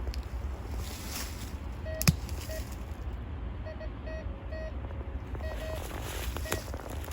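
Wind rumbling on the microphone outdoors, with one sharp click about two seconds in and a string of short, high chirps through the middle.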